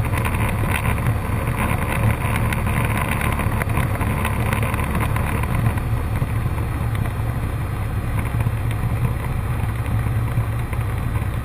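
Cessna 152's Lycoming O-235 four-cylinder engine and propeller droning steadily in flight.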